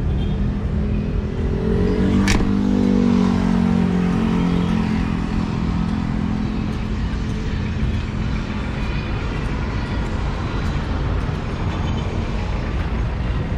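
A motor vehicle engine revs up about two seconds in, runs steadily for several seconds and then fades away, over a constant low rumble. A single sharp click sounds near the start of the rev.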